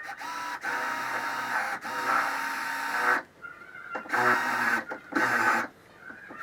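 Electric drill fitted with a spot weld drill bit, drilling out spot welds in the car's steel rear panel. It runs in two bursts: about three seconds, then a pause, then about a second and a half.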